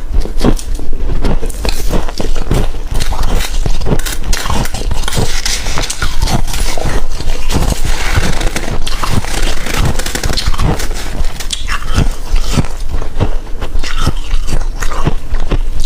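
Humidifier frost being bitten and chewed, a continuous run of crisp crunches and crackles with no pauses.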